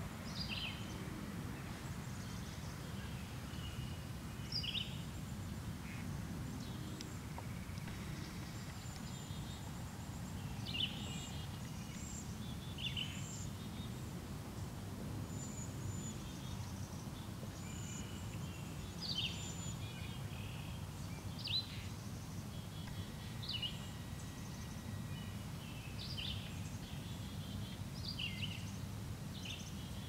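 Small wild birds giving short, high, falling chirps every second or two over a steady low background rumble.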